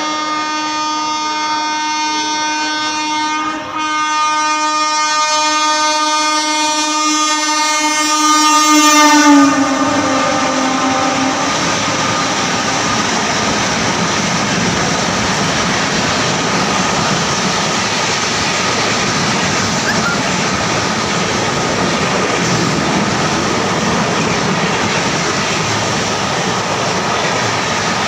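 Indian Railways express train passing at high speed: the locomotive's horn sounds one long blast, briefly broken once, and drops in pitch as the engine goes by. The coaches then rush past with a steady rumble of wheels on rails.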